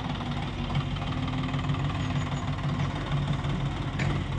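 Diesel engine of heavy machinery running steadily at a low, even pitch, with a single short click about four seconds in.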